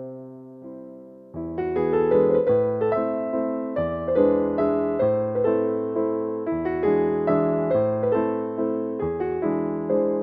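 Slow, gentle piano music: chords and single notes struck in a steady rhythm, each one fading, with the playing growing fuller about a second and a half in.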